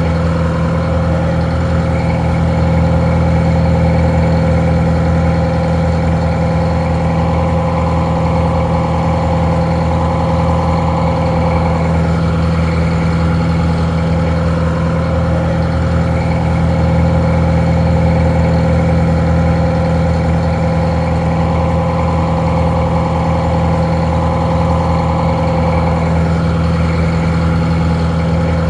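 Detroit Diesel 4-71 two-stroke diesel engine idling steadily, a deep even drone that sounds a little muffled.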